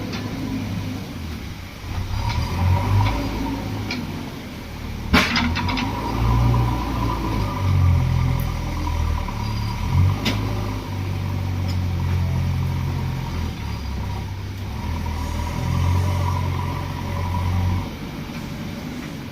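Diesel engines of JCB 3DX backhoe loaders working, the low rumble swelling and easing as they rev up and down. A sharp clank comes about five seconds in and a lighter one about ten seconds in.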